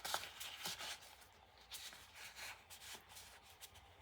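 Soft paper rustling as envelopes and tags in a handmade paper journal are handled, in short irregular bursts, with a sharp click right at the start.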